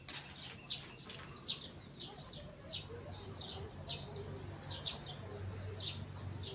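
Small birds chirping busily: a rapid run of short, high, falling chirps, several a second, over a faint low hum.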